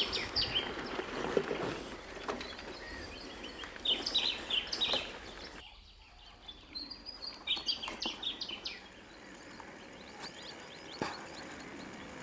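Small songbirds singing short chirping phrases in three bursts a few seconds apart, over a steady background hiss of outdoor noise.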